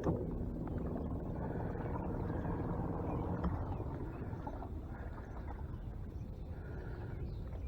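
45-pound-thrust electric trolling motor running steadily, a low hum with a sharp knock right at the start.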